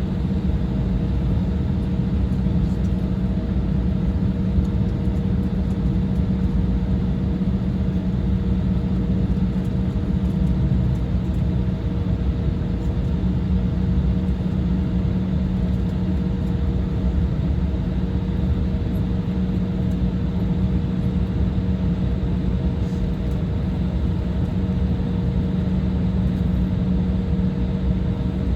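Steady drone of an Embraer 175's jet engines and airframe heard inside the passenger cabin: an even rumble with a constant low hum and a fainter higher hum.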